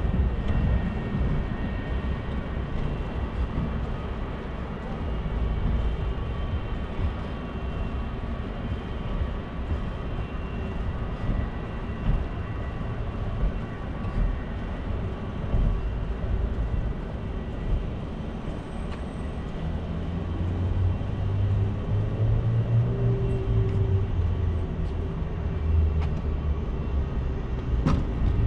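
City street traffic with wind buffeting the microphone, a steady low rumble with a vehicle engine droning past about two-thirds of the way in.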